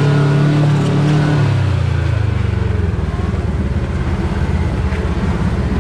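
Side-by-side UTV engine running on the trail. About two seconds in its revs drop, and it settles into a low, steady, rough running.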